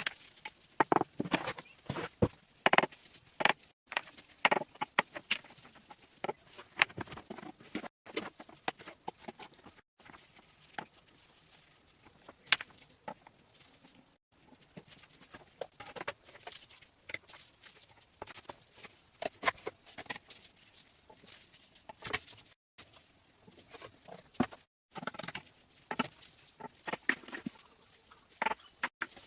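Irregular small clicks, taps and scrapes of close-up hand work, broken by several abrupt edit cuts.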